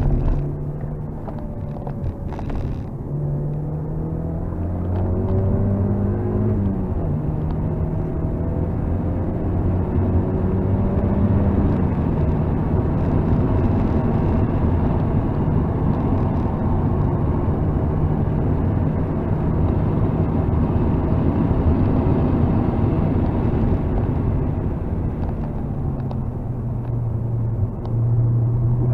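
Mazda MX-5 NC's 2.0-litre four-cylinder engine with an aftermarket AG Works exhaust, heard from inside the open cabin at full throttle on track. Revs climb and drop back at upshifts about 3, 7 and 12 seconds in, then hold steady. The pitch drops to a lower steady note about 26 seconds in, with tyre and wind noise throughout.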